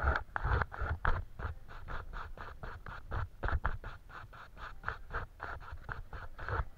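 Paintbrush rubbing back and forth on paper in quick repeated scratchy strokes, about five a second.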